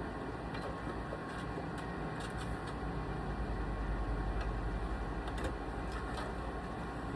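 Domestic sewing machine running steadily, the needle stitching in a fast even rhythm, a little louder for a second or two in the middle.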